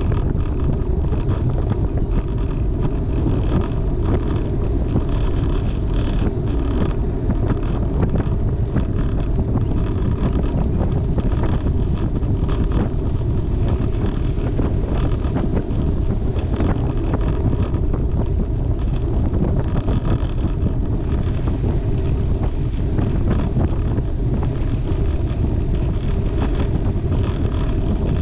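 Steady wind rushing over the microphone of a camera riding along on a road bicycle, a constant low rumble without any break.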